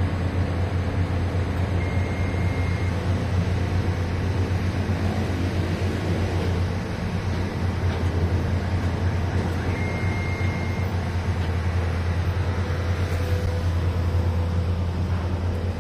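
A large engine running steadily with a low hum. A high beep sounds twice, each about a second long.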